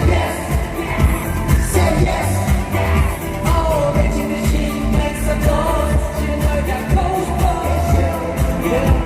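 Live pop song performance: male vocals singing over a backing track with a heavy, steady bass beat.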